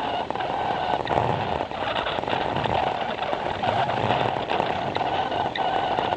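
Plarail toy train running on plastic track: the small battery motor whines steadily while the wheels click irregularly over the track joints.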